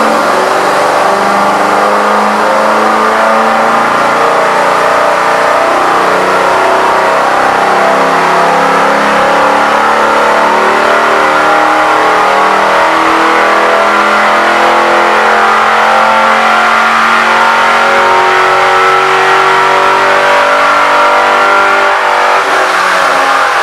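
A car engine and exhaust running loudly and steadily, its pitch shifting a little over the stretch.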